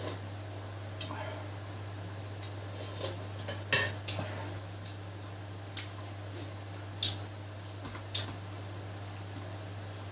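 Utensils clinking against dishes or a pot: a scattering of short, sharp clinks, a quick cluster of them a little under four seconds in, then single clinks every second or so.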